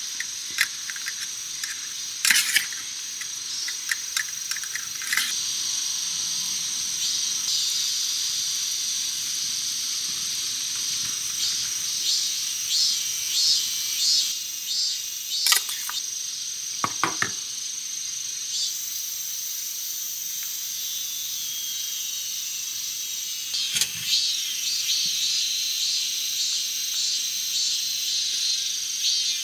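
Steady high-pitched insect chirring, with a few sharp taps scattered through it.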